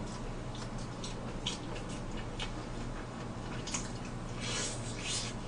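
Close-miked eating sounds: soft wet mouth clicks and smacks of chewing, with a longer wet noise about four and a half seconds in as meat is bitten off a braised pork back rib. A faint steady low hum runs underneath.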